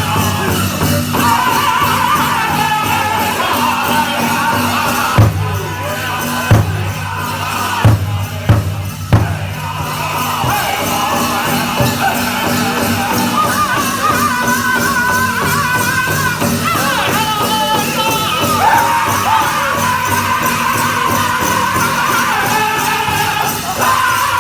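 Powwow drum group singing a chicken dance song over a steady beat on the big drum, with the jingle of dancers' bells. Between about five and nine seconds in, the singing drops back and five loud, spaced single drum strikes ring out before the song carries on.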